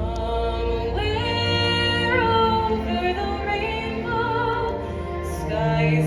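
A woman singing a slow ballad, holding long notes with vibrato, over soft orchestral accompaniment.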